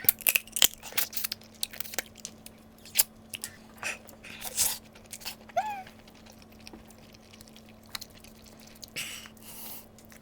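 Close-up eating sounds of seafood: crisp crunching bites and wet chewing, densest in the first two seconds and then scattered clicks, with a brief rising-falling squeak about halfway.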